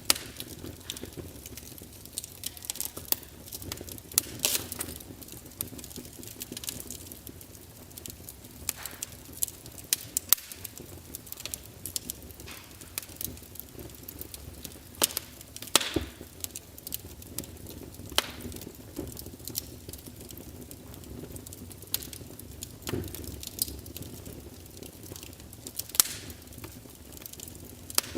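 Wood fire crackling: irregular sharp pops and snaps, a few louder ones standing out, over a low steady rumble.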